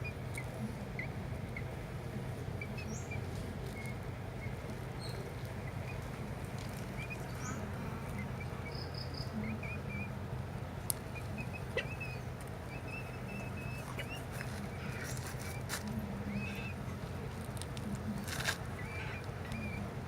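Faint, short bird chirps scattered over a steady low hum, with a few sharp clicks, the loudest about two-thirds of the way through and near the end.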